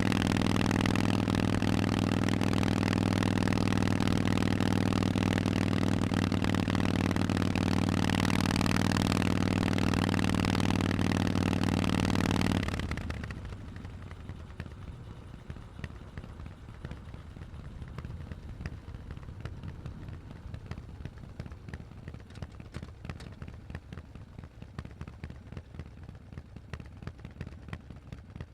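Harley-Davidson Forty-Eight's 1200 cc Sportster V-twin idling steadily through Vance & Hines exhausts, then shut off suddenly about thirteen seconds in. After that only faint background noise with light scattered clicks remains.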